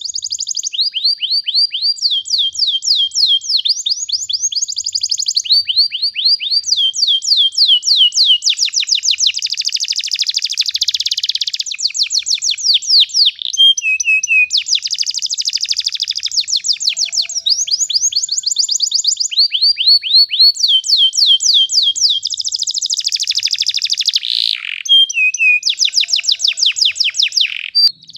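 Domestic canary singing a long, unbroken rolling song: fast trills of repeated notes, each phrase switching to a new one every second or two.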